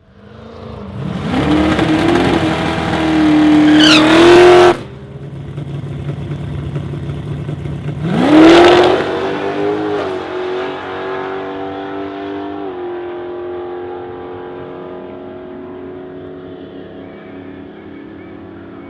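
Pontiac Firebird drag car's engine revving hard twice: one long climb that cuts off abruptly, then a shorter pull. After that it runs on at a steady, lower pitch that slowly fades.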